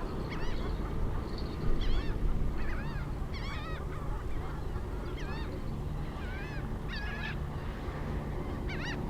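A bird calling repeatedly, short curved rising-and-falling calls roughly once a second, over a steady low rumble.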